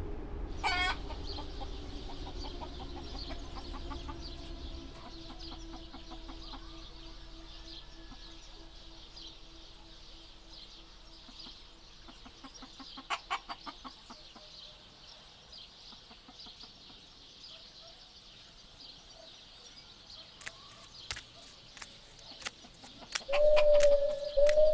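A rooster crowing near the end, the loudest sound, over a steady high-pitched background chatter; a quick run of clucks about halfway through. A shimmering sound sweeps down in pitch about a second in, while a low drone fades out over the first few seconds.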